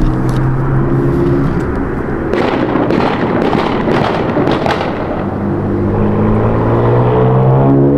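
A car engine through a loud exhaust: running steadily, then a rapid string of sharp exhaust cracks and pops in the middle, then the engine note climbing steadily in pitch as it revs up.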